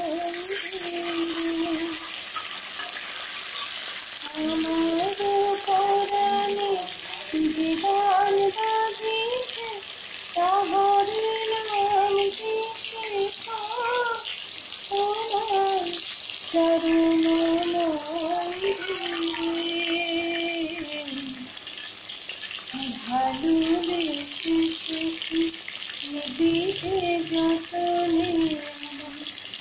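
Fish pieces sizzling steadily as they fry in hot oil in a wok, under background music: a slow melody of long held notes stepping from pitch to pitch, louder than the sizzle.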